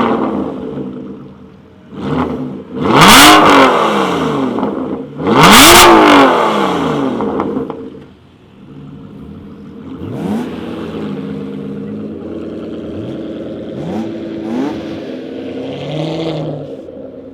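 V12 supercar engine free-revving: two hard revs climbing and falling back, then settling to idle with several smaller throttle blips.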